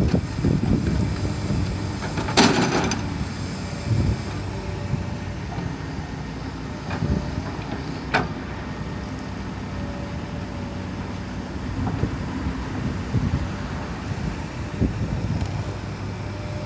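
Excavator's diesel engine running steadily under load, with metallic clanks and knocks from the machine at work. The loudest is a ringing clank about two seconds in, and a sharp one comes about eight seconds in.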